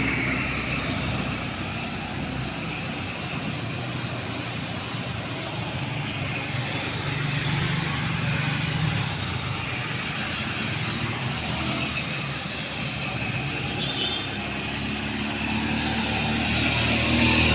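Road traffic: cars, trucks and motorcycles passing, a steady noise of engines and tyres that swells as heavier vehicles go by, with a short high beep about two-thirds of the way through.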